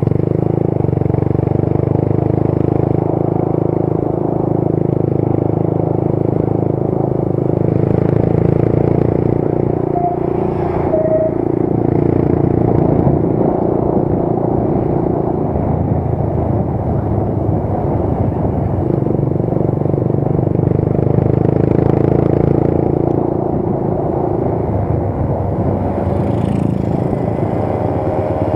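Motorcycle engine running steadily on the move, with road noise.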